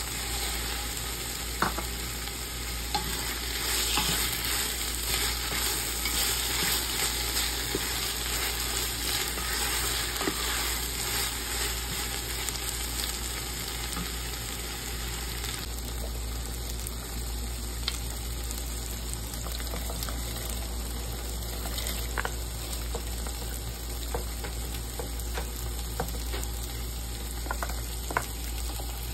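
Sliced onions and tomatoes sizzling in hot oil in a stainless steel pot while a wooden spoon stirs and scrapes, with small clicks of the spoon against the pot. The sizzle is strongest in the first half and eases about halfway through.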